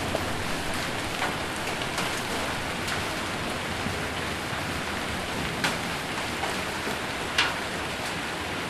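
Rain and hail on a metal roof: a steady hiss with scattered sharp taps of single stones, the loudest ones in the second half.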